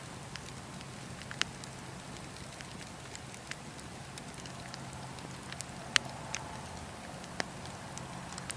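Wood campfire crackling: scattered sharp pops over a steady low background, the loudest about six seconds in.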